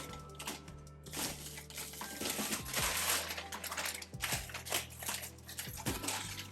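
Plastic-wrapped frozen food packages crinkling and rustling as they are handled and shifted, with a few light knocks.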